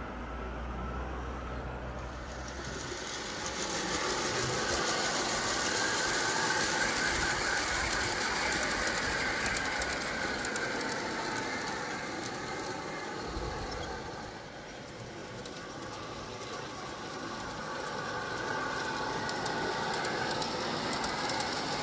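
G-scale garden railway train running along the track, its wheels rolling on the rails with a steady rattling. It grows louder about three seconds in, dips briefly about two-thirds of the way through, then rises again.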